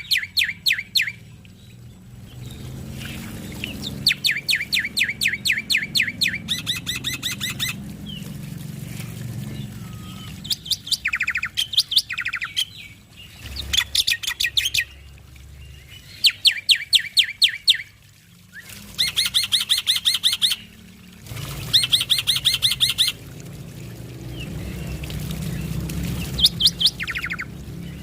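Male black-winged myna (jalak putih) singing in repeated bouts of rapid, evenly spaced chattering notes, each bout a second or two long with short pauses between, over a low steady background hum.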